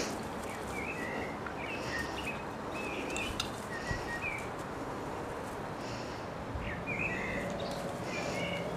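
Small birds chirping in short, quick calls, in two spells, over a steady background hiss.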